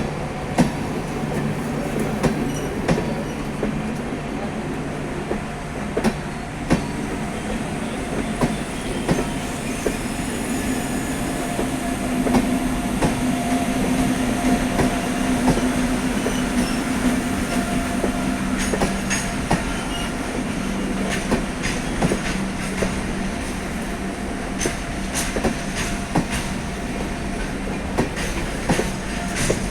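Express passenger train running on the rails: a steady rumble broken by irregular sharp clicks and knocks of the wheels over rail joints.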